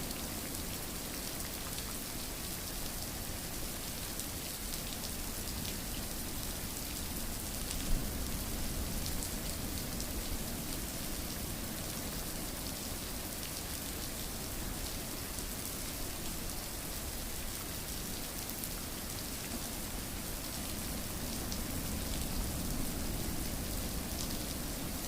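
Steady rain falling on a surface, an even hiss with scattered drop ticks and one sharper drip about eight seconds in.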